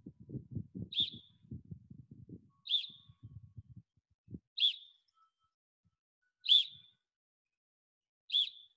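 A bird repeating the same short, high chirp about every two seconds, five times, with faint low rustling in the first few seconds.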